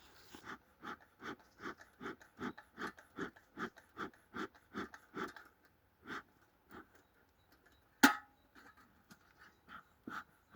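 Bee smoker's bellows being pumped in a steady run of short breathy puffs, about two and a half a second, to get the fuel burning, then slowing to a few scattered puffs. A single sharp click stands out about eight seconds in.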